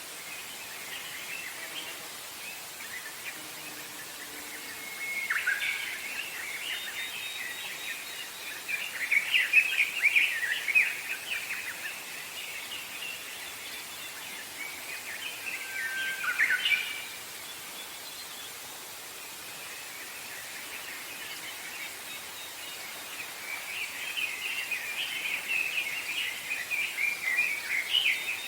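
Wild songbirds singing in three spells of chirping phrases, a few seconds each, over a steady background hiss of outdoor ambience.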